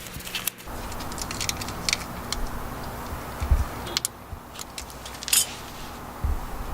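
Scattered light metallic clicks and clinks as new brake pads and their hardware are handled and fitted, with a low rumble near the end.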